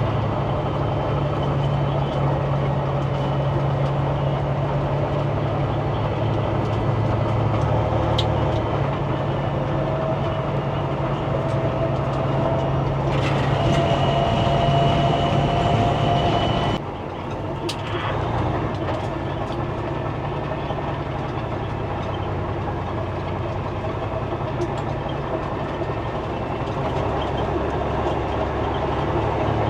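Semi truck's diesel engine pulling on the road, a steady low drone with road noise. Its pitch climbs gradually, then drops off suddenly about two-thirds of the way through as the driver shifts gear, and the engine settles back into a steady pull.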